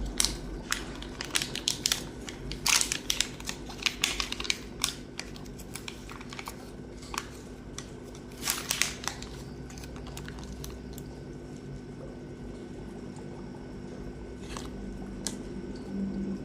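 Irregular sharp clicks and crinkling from a pack of Hikari algae wafers being handled. The clicks are dense for the first half and then thin out to a few, over a steady low hum.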